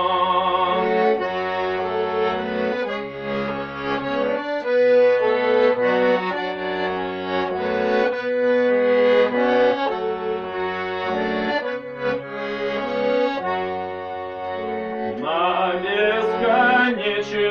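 Instrumental music between sung verses: sustained chords over held bass notes, changing every second or two. A man's singing voice comes back near the end.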